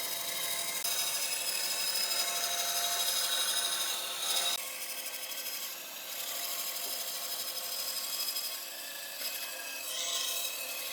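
A tool scraping and cutting into wood in a steady rasp, its sound shifting about four and a half seconds in and again near the end.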